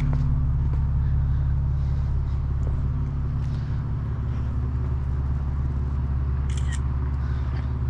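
Car engine idling steadily, with two short sharp clicks about six and a half seconds in.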